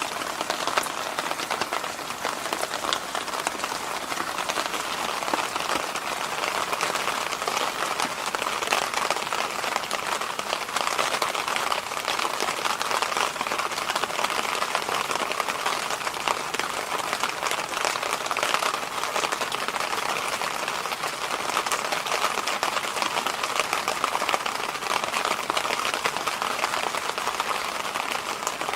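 Electric fan running steadily: an even airy rush without a pitched hum, slightly grainy in texture.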